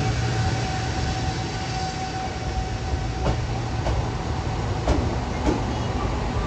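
Royal Express passenger cars (rebuilt Izukyu 2100-series) rolling slowly past along the platform as the train departs: a steady low rumble, with wheel clicks over a rail joint coming in pairs about half a second apart, twice in the second half.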